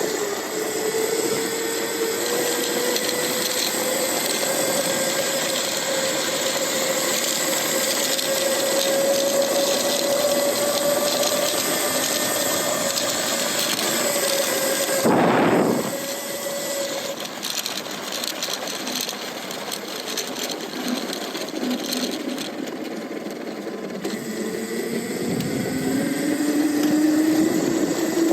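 Electric motor of a Lightning Rods-driven e-bike whining while riding, its pitch following the speed: slowly rising, then dropping away after a brief rush of noise about halfway through, and climbing again near the end. Tyre and wind noise run underneath.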